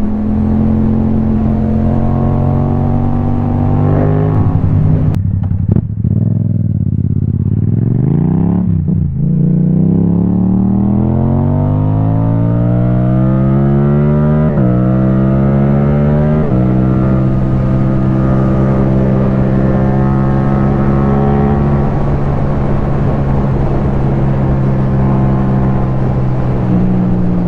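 Yamaha MT-07 parallel-twin engine through an Akrapovic titanium exhaust, heard from on the bike: running steady, falling in pitch as it slows about five seconds in, then accelerating with a rising note. Two sharp drops in pitch about fourteen and sixteen seconds in are quickshifter upshifts, after which the engine settles into a steady cruise.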